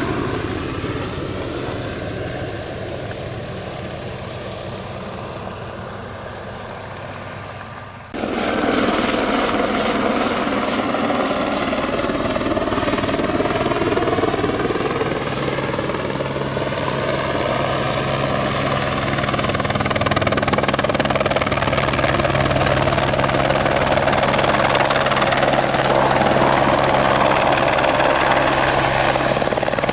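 Single-turbine light helicopter flying: its rotor and turbine noise fades away over the first few seconds, then after an abrupt cut about 8 seconds in it is loud and close, with a slowly sweeping tone as it moves, growing louder near the end.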